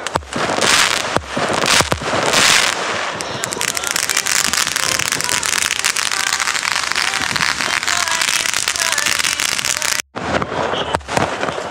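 New Year fireworks going off: several sharp bangs, then a long dense crackle of many small pops. Near the end the sound drops out for an instant before more bangs.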